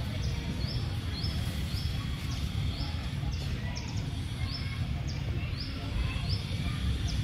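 A bird giving short, high rising chirps about twice a second over a steady low rumble of outdoor noise.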